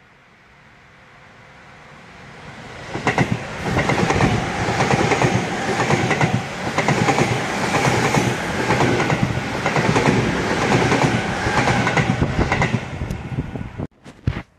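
Seibu Railway electric commuter train approaching and passing close by, its wheels clattering rhythmically over the rail joints. The sound builds over the first few seconds, stays loud while the cars go by, and cuts off suddenly near the end.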